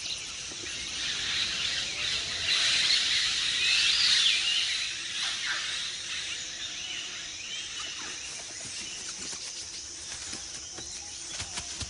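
Rainforest ambience: a steady high chorus of insects with scattered short bird calls, swelling louder a couple of seconds in.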